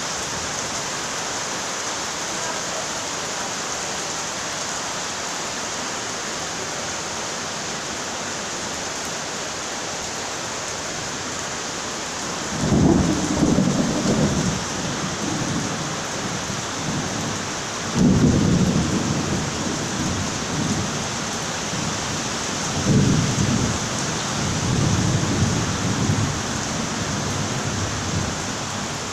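Steady rain falling, with thunder rolling three times in the second half, each roll a low rumble lasting a few seconds.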